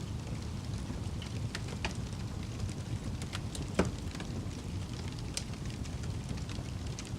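Wood fire burning with a steady low rumble and scattered sharp crackles and pops, the loudest pop just before the middle.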